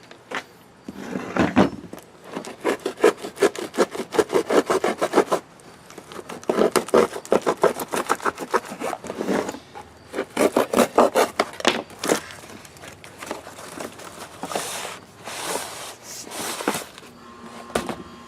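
Rapid rubbing and scraping strokes, several a second, coming in a handful of bursts with short pauses between them.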